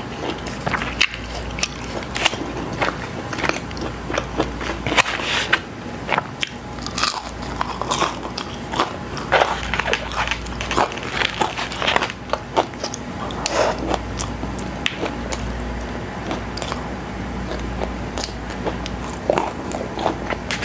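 Crunching and chewing of crispy breaded fried chicken close to a clip-on microphone: a steady stream of crackly crunches, with louder bites every second or so.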